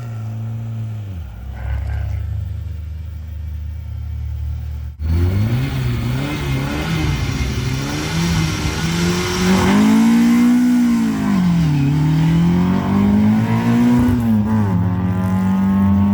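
Historic rally car engine idling steadily, then, after an abrupt cut about five seconds in, revved hard again and again with the pitch rising and falling, and held at high revs near the end, as at a stage start.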